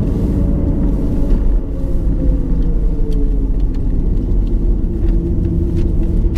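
Car driving, heard from inside the cabin: a steady low road and engine rumble whose engine tone falls a little between about two and four seconds in, then holds steady. A few faint clicks sound over it.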